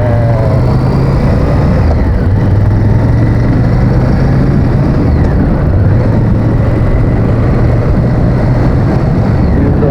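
Honda VTR1000F's 90-degree V-twin engine running steadily while riding, with wind rushing on the helmet microphone.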